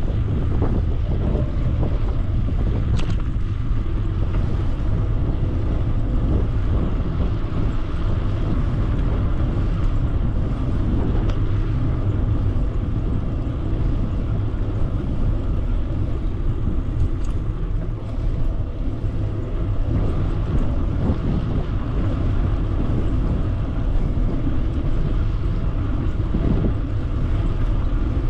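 Wind buffeting the microphone on a moving e-bike: a steady low rumble with a hiss above it.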